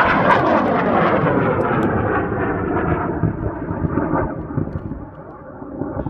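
High-power experimental rocket motor burning at liftoff and climbing away: a loud rushing roar whose pitch falls steadily and which fades over about five seconds.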